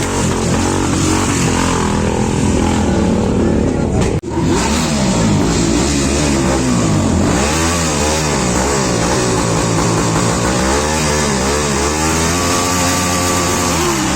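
Several motorcycle engines revving over and over, their pitch rising and falling in overlapping sweeps, with a brief sudden break about four seconds in.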